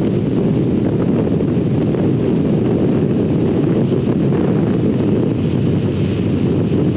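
Steady wind rush buffeting the microphone of a motorcycle riding along at speed, a dense low rumble that holds constant throughout.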